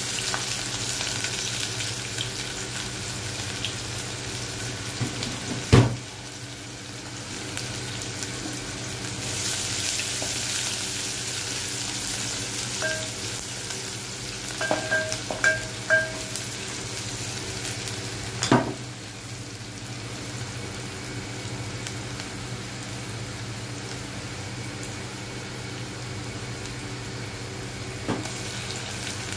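Chopped onions and vegetables sizzling in hot oil in an aluminium pot, stirred with a wooden spatula. Two sharp knocks stand out, about six seconds in and again near the middle, with a few short beeps in between.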